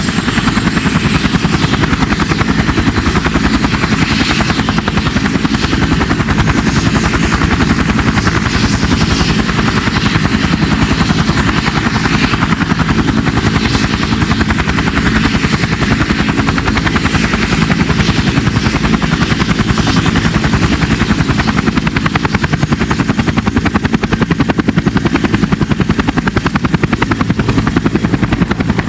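CH-47 Chinook tandem-rotor helicopter running steadily, its two rotors giving a rapid, even chop with a thin high whine from its twin turboshaft engines.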